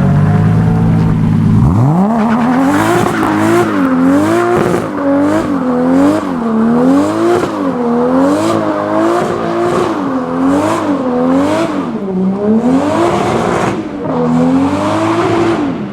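Engine of a tuned high-performance car, first at a low steady note, then revving hard about two seconds in. The revs then rise and fall about once a second, over and over.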